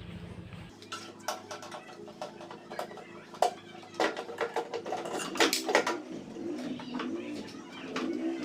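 Repeated sharp metallic clicks and clinks of hand tools and metal parts as a microwave oven's magnetron is being unscrewed and removed, with birds cooing in the background, the cooing growing clearer near the end.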